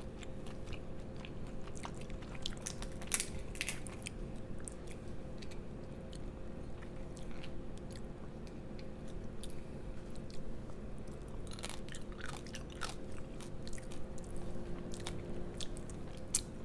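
Person chewing and biting food close to the microphone, with scattered wet clicks and crunches. A steady low hum runs underneath.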